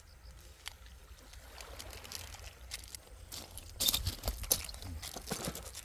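Water being poured into a camping cooking pot, with scattered clinks and rustles, loudest about four seconds in.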